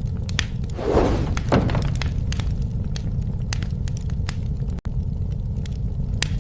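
Wood fire burning: a steady low rumble of flames with frequent sharp crackles and pops from the burning wood. About a second in, a louder hissing flare lasts roughly a second. A momentary break in the sound comes past the middle.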